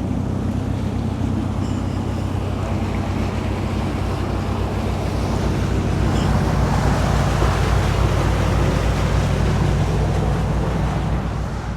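Cruising yacht's engine running steadily under way, with wind and rushing water; the wind and water grow louder about halfway through.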